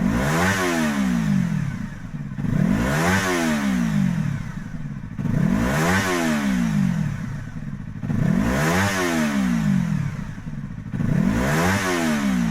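Yamaha MT-25's 250 cc parallel-twin revving through an OVER Racing GP-PERFORMANCE RS titanium slip-on exhaust. It is blipped about five times, roughly every three seconds, each rev climbing quickly and then dropping back.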